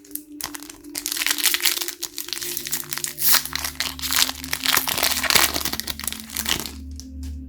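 Plastic wrapping of Pokémon trading-card packaging crinkling as it is handled and opened, a dense run of crackles lasting about six seconds.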